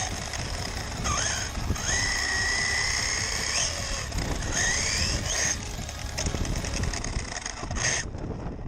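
Electric RC car's motor whining as it is driven, rising in pitch as it speeds up about a second in and again around four and a half seconds, holding a steady whine in between, with tyre and ground noise under it.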